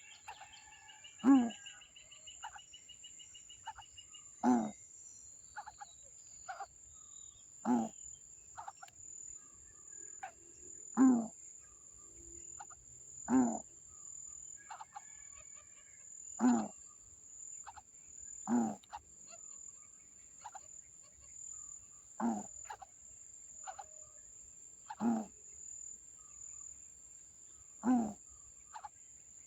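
An animal's short, loud call repeated about every three seconds, ten times in all, over the steady high-pitched drone of insects. A faint trill sounds near the start.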